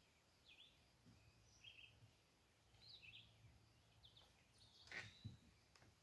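Faint wild birds chirping in short, scattered calls, with a louder call about five seconds in.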